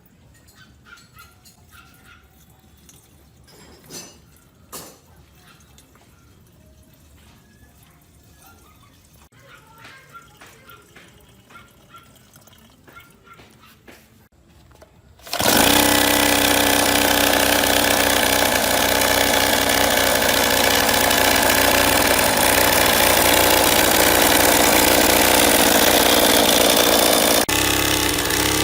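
Quiet handling clicks and light knocks, then about halfway through the restored 50cc two-stroke engine starts suddenly and runs loudly and steadily, its note shifting slightly near the end.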